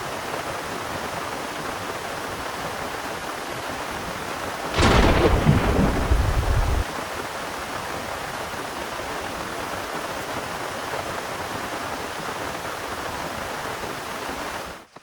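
Heavy rain falling steadily, with a close thunderclap about five seconds in: a sudden sharp crack followed by a low rumble lasting about two seconds. The rain cuts off abruptly near the end.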